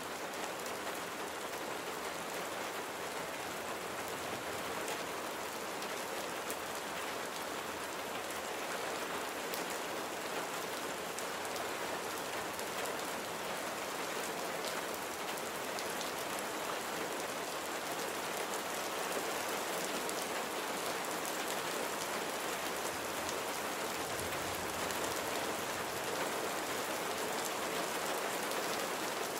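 Steady rain falling, a dense even hiss with many scattered fine drop patters on a surface.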